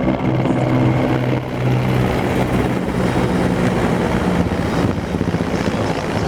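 Military helicopters flying over, a loud, steady rapid rotor chop with an engine drone underneath.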